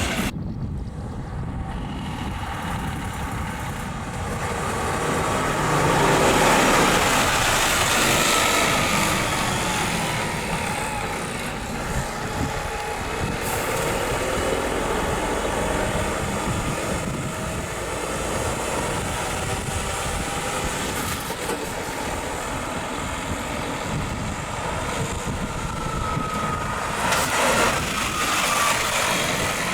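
A truck running, steady vehicle noise that swells for a couple of seconds about six seconds in.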